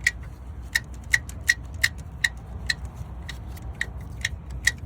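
2007 Lexus LS460's 4.6-litre V8 running with sharp clacks about twice a second, unevenly spaced, over a steady low hum. This is the timing chain slapping because its tensioner isn't holding it tight.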